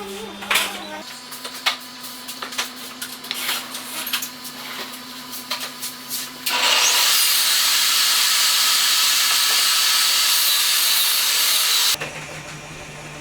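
Workshop handling clicks and knocks, then a woodworking power tool running steadily for about five seconds before cutting off suddenly near the end.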